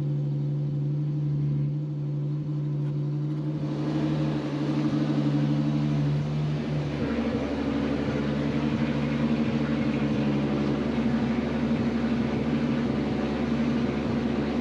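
Turbocharged 12-valve VR6 engine idling steadily while warming up after a cold start. About four seconds in, a broad hiss joins the idle, and around seven seconds the idle note shifts slightly lower.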